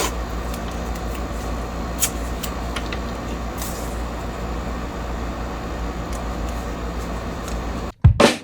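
Steady low electrical hum at the workbench, with a few sharp clicks of small parts and tools being handled. About 8 s in it cuts out and a drum beat from background music starts.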